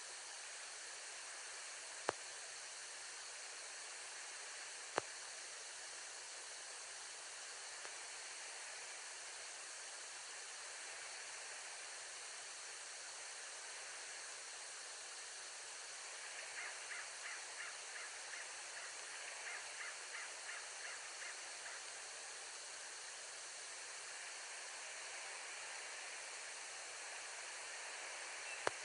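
Bald eagle calling: a quick run of high, staccato chirps lasting about five seconds, past the middle. Under it runs a steady hiss, broken by a few sharp clicks.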